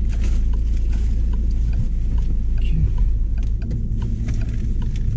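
Citroën Picasso people carrier's engine idling, a steady low rumble heard from inside the cabin, with faint ticks about twice a second.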